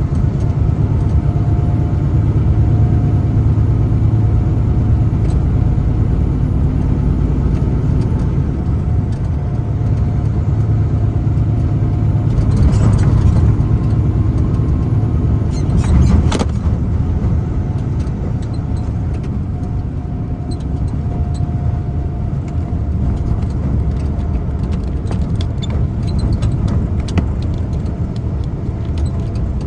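A truck driving on a highway: steady low engine and road rumble with a faint constant hum. The noise swells for a couple of seconds about halfway through, followed by a brief louder burst.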